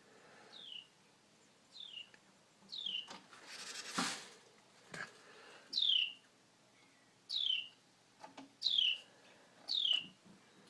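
A bird calls again and again: about seven short, sharp notes, each sliding down in pitch. A brief loud rush of noise comes about a third of the way in.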